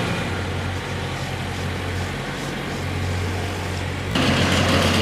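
A motor engine running steadily with a low hum. About four seconds in it suddenly gets louder and a higher steady whine joins.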